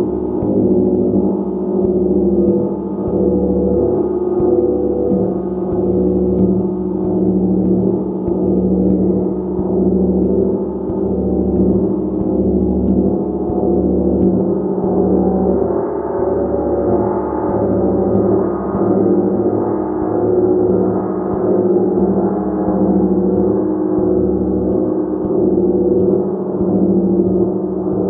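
Gong played continuously: a sustained wash of many overlapping ringing tones, its loudness swelling and easing in slow pulses about once a second.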